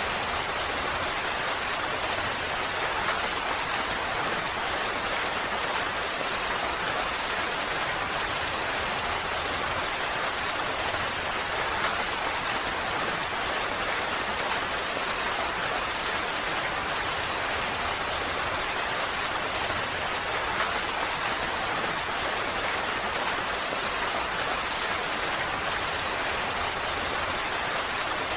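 Steady rain falling: an even, unbroken hiss with the odd single drop tick standing out now and then.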